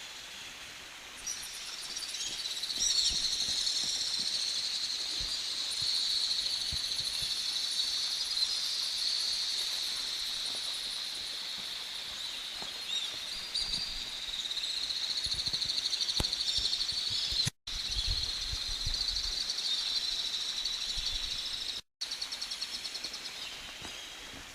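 A steady high-pitched chorus of birds and insects calling, with two brief drops to silence where the recording cuts.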